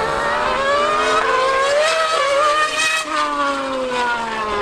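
High-revving racing engine accelerating hard, its pitch climbing in steps as it changes up through the gears, then dropping steadily from about three seconds in as it runs off.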